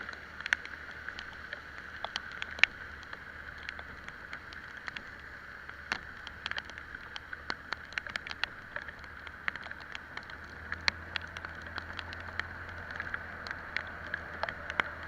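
Steady hiss of a scooter ride in the rain, with the low hum of the Italika Vitalia 125 scooter's engine, which grows louder about ten seconds in. Irregular sharp ticks of raindrops striking the camera run throughout.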